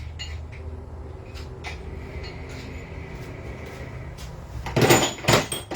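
Metal engine parts and tools knocking and clattering as they are handled during an engine teardown: a short cluster of three or four loud knocks about a second before the end, over a low steady hum.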